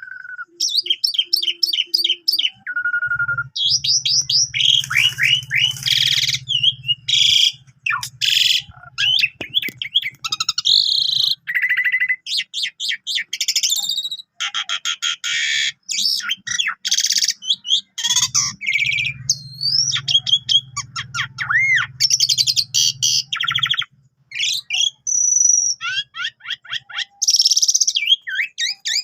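Asian pied starling (jalak suren) singing a long, varied song packed with mimicked phrases: chirps, whistled glides, quick rattles and harsh notes, strung together with short gaps.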